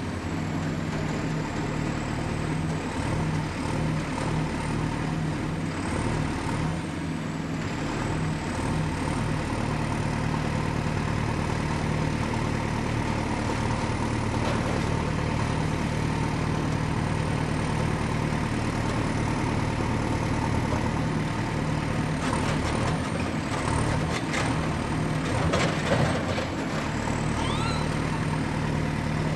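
Excavator's diesel engine running steadily at work, with a thin high whine that wavers slightly in pitch above the engine hum. Several short knocks and clatters come near the end.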